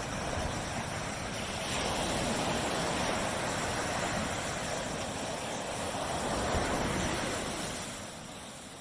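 Ocean waves breaking on a beach. One wave's wash rushes in at the start, stays full for several seconds, then fades away near the end.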